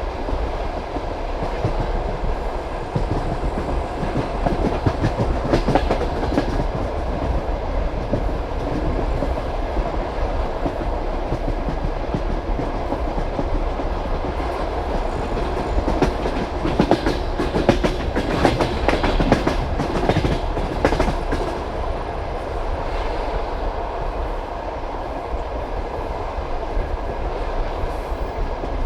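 Passenger train carriage rolling at speed, its wheels clattering over the rail joints with a steady rumble underneath. Bunches of louder clicks come about five seconds in and again through the middle stretch.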